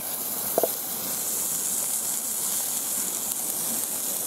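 Chicken sizzling as it grills over a campfire, a steady hiss, with one short pop about half a second in.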